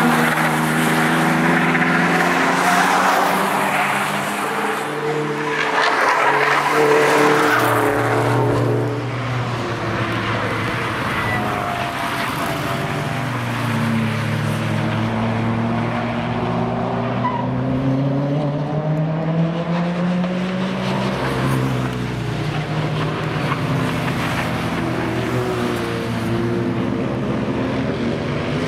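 Car engines at speed on a race track, several overlapping, their pitch rising and falling as they rev and go by. The first eight seconds or so are loudest, with a rush of noise over the engines.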